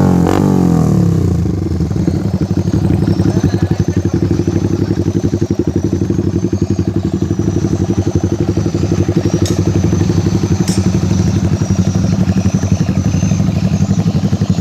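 Yamaha Vixion's 150 cc single-cylinder four-stroke engine idling through a JSR aftermarket exhaust, with a steady, even run of exhaust pulses. It settles into the idle about a second in, after a falling pitch.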